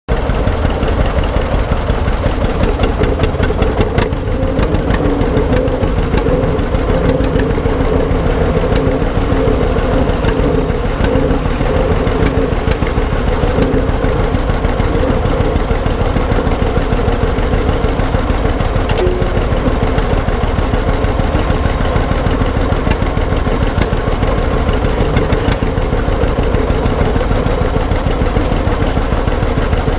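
Antique tractor engine running steadily, with sharp ticks and pops over a constant drone.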